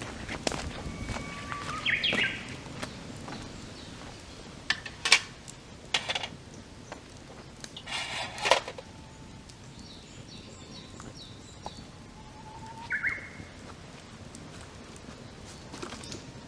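Wood campfire crackling with a few sharp pops, while birds give occasional short calls around it.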